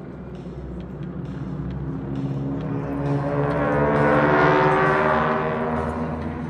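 Pratt & Whitney radial-engined aerobatic planes making a low flyby in formation, with a droning, snarling engine note. It builds to its loudest about four and a half seconds in, then fades as the pitch drops slightly.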